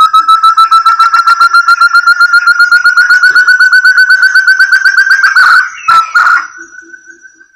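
Lure call of a forest partridge (burung terung): a long, fast run of clear whistled notes, about ten a second, creeping slightly upward in pitch. About five and a half seconds in it is broken by two sharp clicks, then ends in a drawn-out rising whistle that fades.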